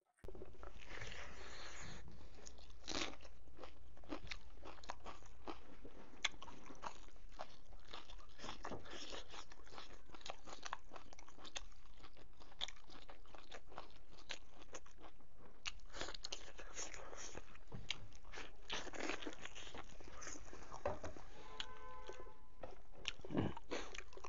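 Close-up eating sounds: a person chewing and crunching mouthfuls of rice, leafy greens and pork eaten by hand, a steady run of small crunches and wet mouth clicks.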